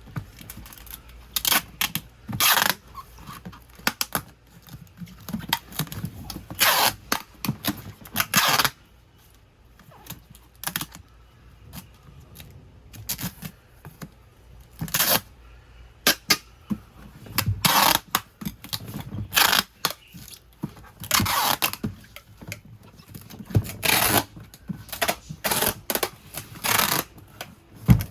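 Irregular rustling, crinkling and scraping of packing material and a shoebox as sneakers are handled and packed, in uneven bursts with a short pause about nine seconds in.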